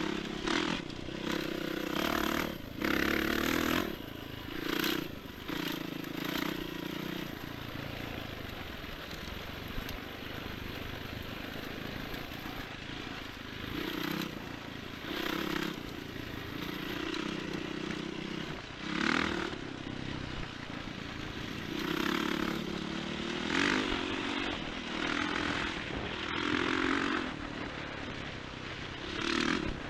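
Enduro motorcycle riding over rough ground, its engine note swelling and easing again and again as the throttle opens and closes, with repeated bursts of rushing noise.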